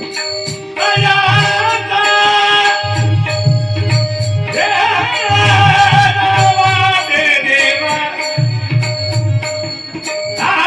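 Marathi devotional bhajan: a singing voice over tabla accompaniment, the tabla's deep bass strokes keeping a steady rhythm.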